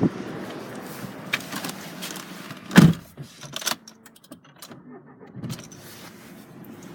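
Clicks and knocks from handling switches and trim inside a car's cabin, with one loud thump about three seconds in, over a low hiss.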